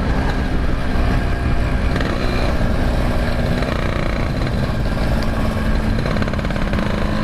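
Yamaha RX-King two-stroke motorcycle running steadily under way, its engine and exhaust loud and even with no marked revving.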